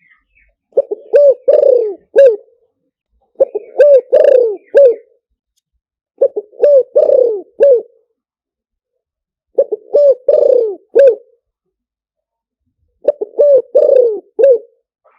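Spotted dove cooing its song in five phrases about three seconds apart, each a run of three or four low coos. It is a decoy bird's call of the kind played to lure wild spotted doves in.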